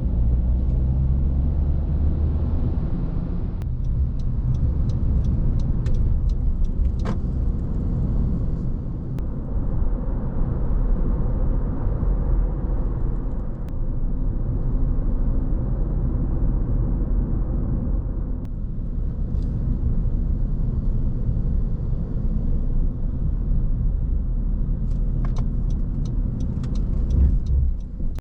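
Steady low rumble of a car driving on a road, with scattered faint ticks and a sharper click about seven seconds in.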